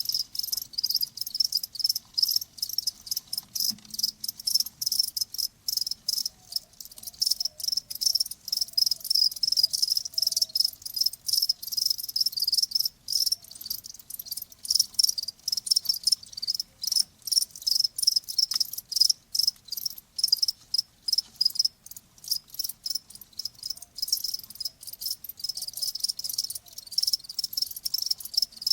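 Crickets chirping continuously in rapid, repeated high-pitched pulses.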